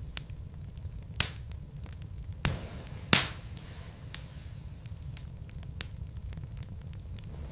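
Wood logs burning in a fireplace: a steady low rumble of the fire with irregular sharp crackles and pops, the loudest two about two and a half and three seconds in.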